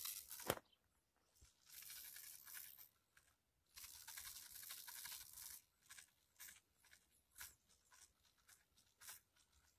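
Faint rustling and brushing noise in two stretches of a second or two each, followed by scattered light clicks and taps.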